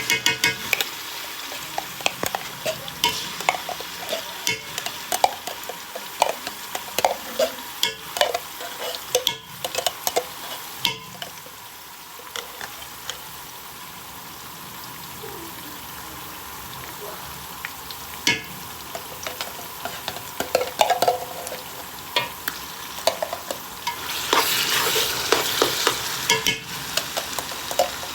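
Pot of Nigerian tomato-and-pepper stew frying in oil with a steady sizzle, while a spoon scrapes and knocks against the pot as it is stirred. The stirring is busiest in the first ten seconds or so, and the sizzle grows louder about 24 seconds in.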